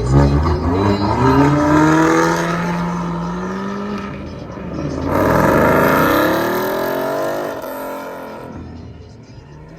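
Car engine accelerating hard, its pitch climbing over the first few seconds, then a second loud surge about five seconds in that fades away as the car drives off.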